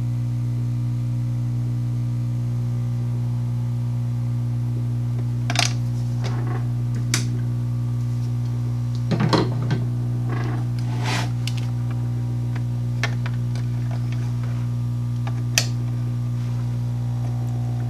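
Steady low electrical hum, with a few scattered light clicks and taps of small tools and parts being handled on a workbench.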